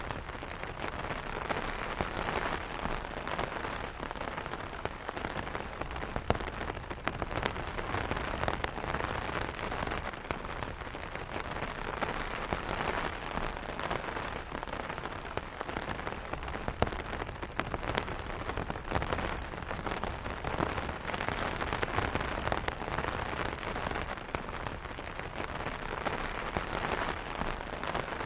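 Rain pattering on an umbrella's canopy, with a steady hiss of rainfall and many separate drop ticks, the odd one louder than the rest.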